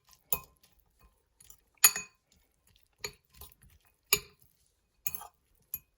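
A utensil clinking and scraping against a bowl while chicken strips are tossed in buffalo sauce: about six sharp, separate clinks, roughly one a second.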